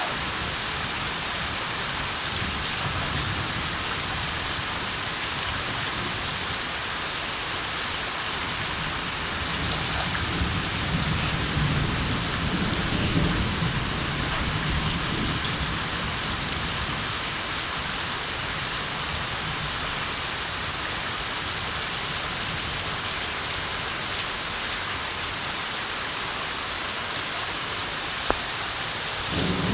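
Steady heavy rain falling, with a low rumble of distant thunder rolling in about ten seconds in and fading over several seconds; another rumble begins right at the end.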